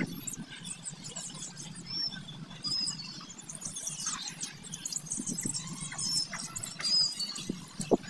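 Small birds chirping in quick, high, scattered notes, with a few clearer whistled notes now and then.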